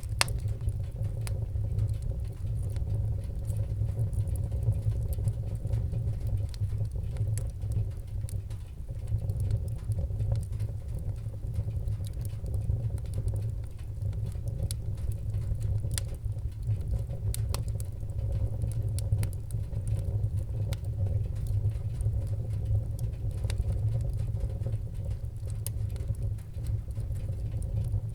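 Wood fire in a fireplace, crackling: a steady low rumble of flames with scattered sharp crackles and pops throughout.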